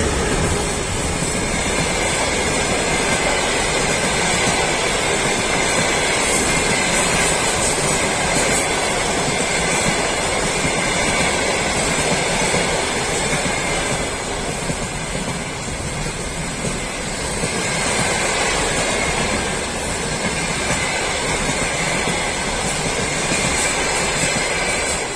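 Adler–Cherepovets long-distance passenger train running past on the rails, a steady loud rolling noise of its wheels and cars.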